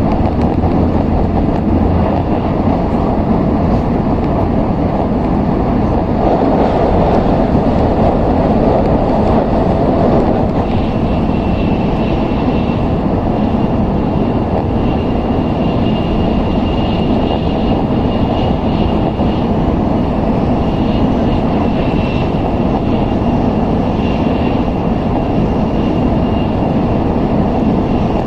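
N700S Shinkansen train running, heard from inside the carriage: a dense, steady rumble of wheels and rushing air, with a faint thin high whine joining in about ten seconds in.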